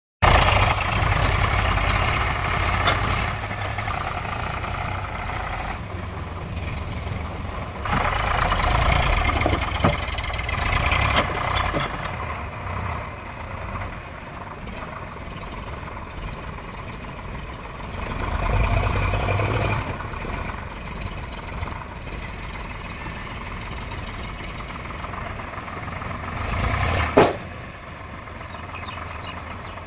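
A heavy vehicle's engine running, growing louder for a few seconds about eight seconds in and again around nineteen seconds, with one short sharp knock near the end.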